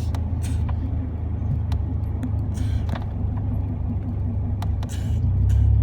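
Truck driving on a back road, heard from inside the cab: a steady low engine and road drone with a few light rattles and ticks, getting louder about five seconds in.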